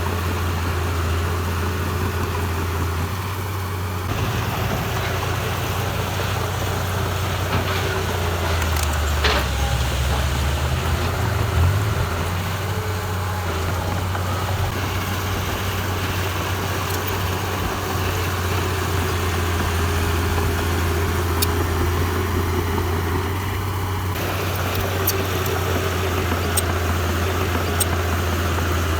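A heavy-equipment diesel engine running steadily with a low, even drone, its pitch dipping and wavering briefly about a third of the way in as the load changes. A few light ticks come near the end.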